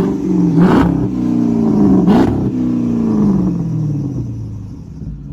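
Hemi V8 car exhaust with the resonators removed, blipped twice about a second and a half apart, loud, then the revs falling away smoothly back to a steady idle.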